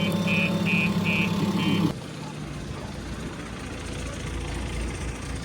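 A heavy machine's engine running while an electronic beeper sounds five short, evenly spaced beeps. About two seconds in, the sound cuts to a quieter, steady engine idle.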